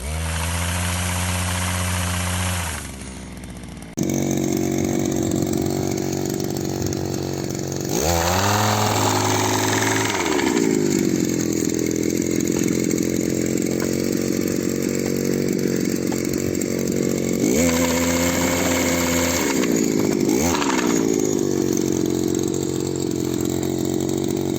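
The 3.1 hp engine of a pole-mounted almond tree shaker running at high speed while it drives the hooked pole, its revs dipping and climbing back up several times.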